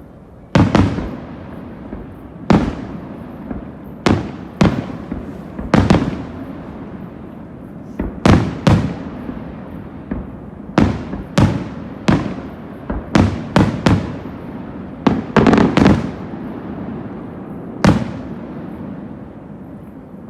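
Aerial fireworks shells bursting overhead in an irregular string of sharp bangs, each trailed by a rolling echo. A quick cluster of bursts comes about three-quarters of the way through, and one last bang follows shortly before the end.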